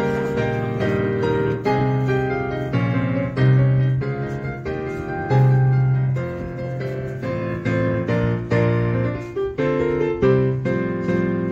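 Background piano music, a steady run of notes with a low bass line.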